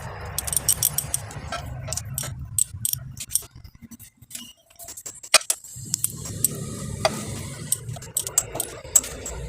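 Metal hand tool clicking and clinking on the cylinder-head nuts of a motorcycle engine as they are tightened in a crisscross order, in quick irregular ticks. A low steady hum runs underneath.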